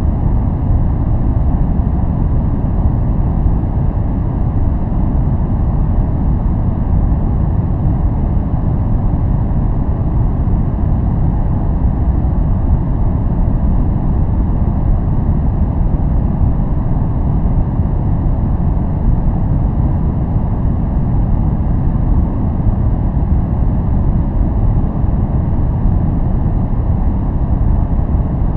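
Steady masking noise for focus, a deep, even rush with most of its weight in the low end and little high hiss, unchanging throughout.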